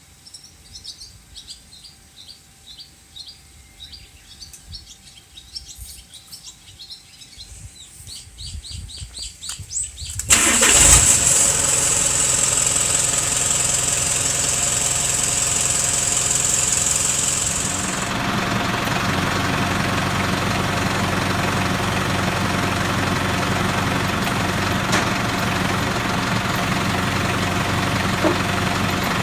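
Toyota Dyna truck engine starting. After about ten seconds of faint, evenly repeating chirps, the engine catches suddenly and runs fast with a strong high hiss for about eight seconds. It then drops to a steady idle.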